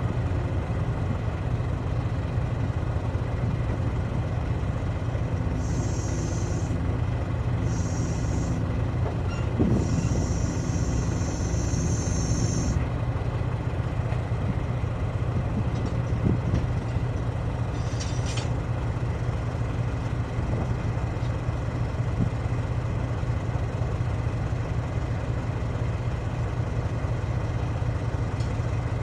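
A heavy diesel engine running steadily at idle with a low drone. A high hiss comes and goes several times in the first half.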